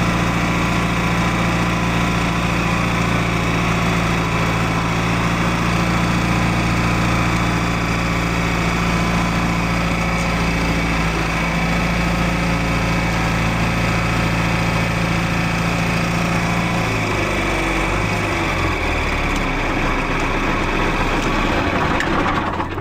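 Tractor engine running steadily, then throttled down and slowing with a lower, uneven note about seventeen seconds in.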